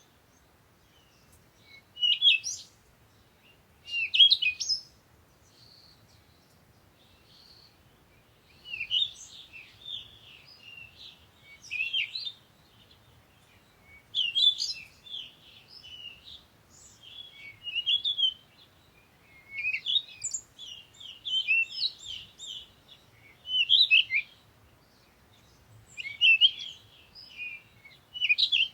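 Songbirds singing and chirping: short, high phrases of quick chirps and trills, repeated every couple of seconds with brief pauses between them.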